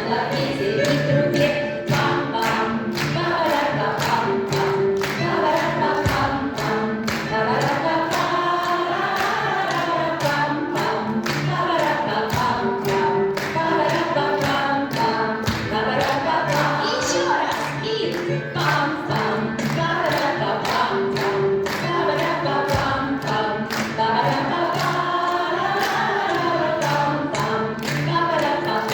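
A choir singing a song over a steady beat of about two strokes a second.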